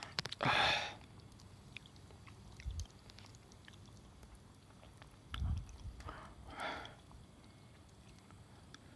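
Someone eating: faint chewing clicks, with a short breathy sound about half a second in and two more a little after the middle.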